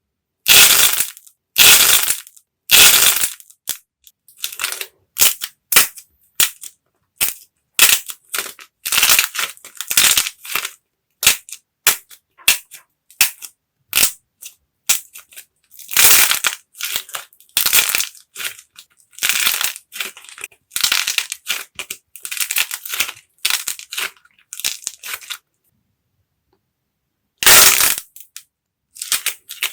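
Dried clay being cracked and crushed: a quick, irregular run of crisp crunching cracks, with a pause of about two seconds near the end before the cracking resumes.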